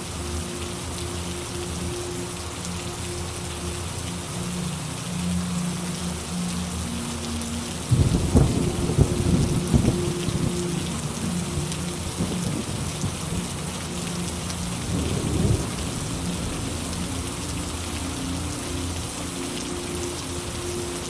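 Steady rain falling, with a sudden crack of thunder about eight seconds in that rumbles on for a few seconds, and a shorter rumble around fifteen seconds in.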